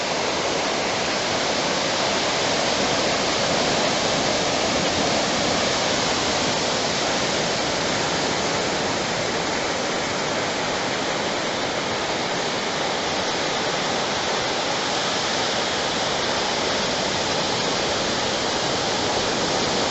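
Steady rush of ocean surf on a beach, an even hiss-like wash with no rise and fall and no bird calls standing out.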